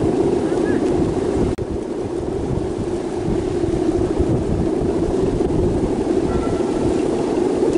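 Strong wind buffeting the microphone in a loud, steady rumble over a constant low drone, with a sudden brief dropout about a second and a half in.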